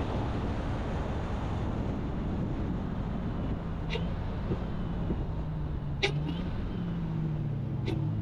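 Supercharged Dodge Charger Hellcat driving: a steady low engine drone and road rumble, the engine note wavering a little near the end, with a few short clicks.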